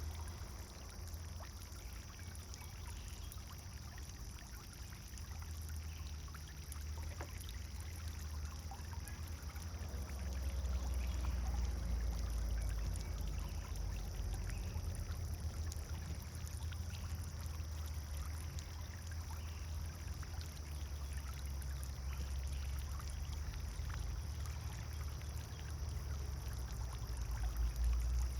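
Pond fountain water splashing and trickling steadily, over a deep rumble that grows slightly louder about ten seconds in.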